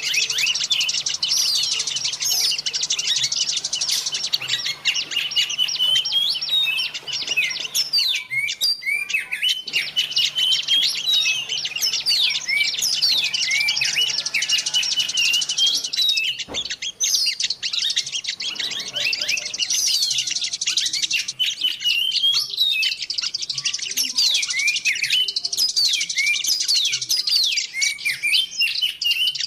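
Many small wild birds chirping and twittering at once in a dense, unbroken chorus of high calls and quick whistled slides. It is a bird-lure (pikatan) recording, played to draw small birds in.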